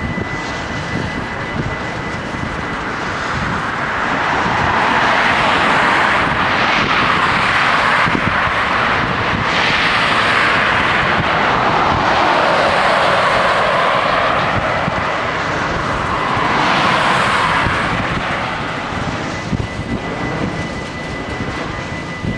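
Freight train of covered hopper wagons rolling past over a level crossing: a steady rushing rumble of wheels on rail that swells loud from about four seconds in and eases off near the end. Underneath, a steady high ringing from the crossing's warning bells.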